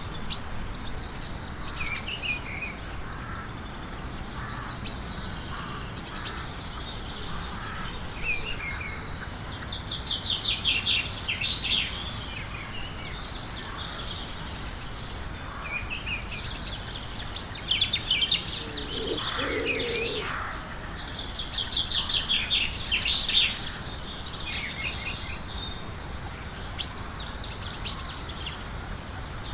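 A chorus of UK garden birds singing, with many overlapping high chirps and rapid trills coming and going throughout.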